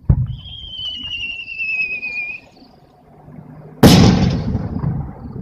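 A firework shell is launched with a thud, then whistles for about two seconds with its pitch falling slightly as it climbs. It bursts with a loud bang just before the four-second mark, and the blast rumbles away.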